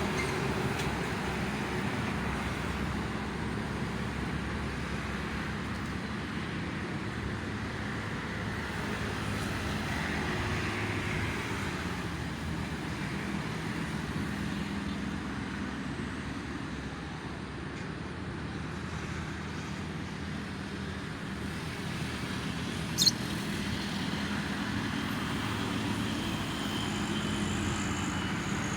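Steady road traffic from the toll road: a continuous wash of passing vehicles and engines. About two-thirds of the way through there is one brief, sharp, high click.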